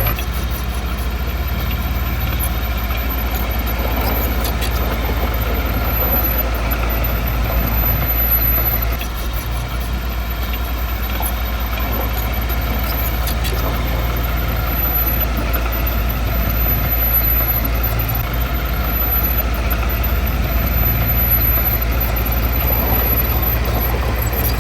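Diesel engine of heavy earthmoving equipment running steadily with a deep, even rumble, with a few faint knocks along the way.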